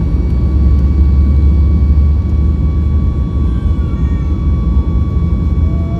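Boeing 737-8 MAX's CFM LEAP-1B engines at high thrust, heard inside the passenger cabin during the takeoff phase: a loud, steady low rumble with several constant high tones over it.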